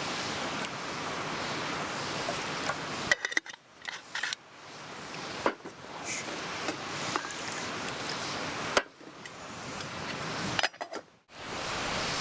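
Steady rush of a mountain stream, then quieter stretches broken by light clinks and knocks of camp cookware and utensils.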